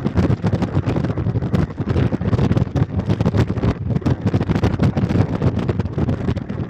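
Wind buffeting the microphone: a loud, rough, fluttering rumble that never lets up.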